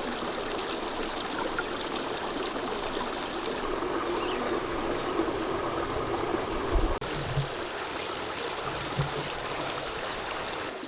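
Mountain stream water running steadily, with a brief break about seven seconds in and a few low knocks around it.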